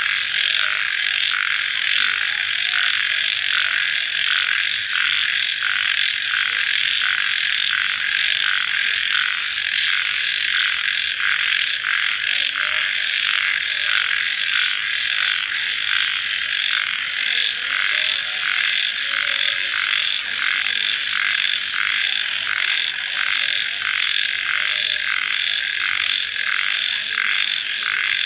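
A dense night chorus of crickets just after rain: a steady, unbroken trilling, with a regular pulse repeating a little faster than once a second.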